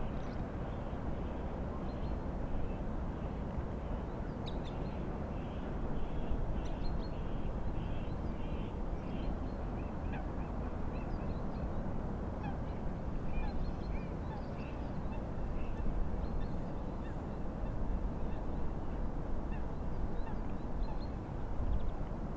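Steady wind and lake waves, with birds calling and chirping over them throughout, including a run of quickly repeated calls a few seconds in.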